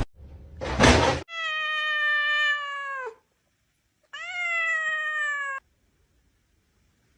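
A cat meowing twice in long, drawn-out calls. The first lasts about two seconds and drops in pitch at the end; the second, after a short pause, slides up at its start. Just before the first meow, about a second in, there is a brief loud noisy burst.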